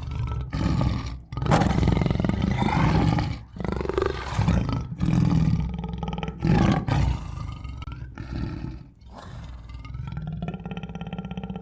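Tiger roaring, a series of loud roars with short breaks between them, quieter near the end.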